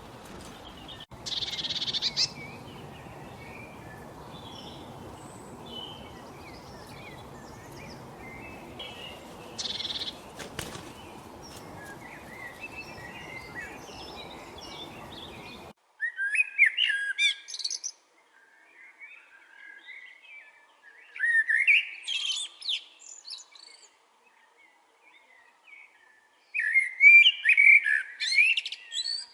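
Wild birds chirping and calling over a steady background hiss. About sixteen seconds in the hiss cuts off suddenly, and a songbird sings three loud, rapid phrases a few seconds apart.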